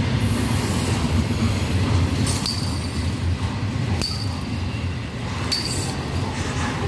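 Freight train cars rolling past close by, a steady low rumble of wheels on rail. Three short sharp metallic clinks with a high ring cut through, roughly a second and a half apart.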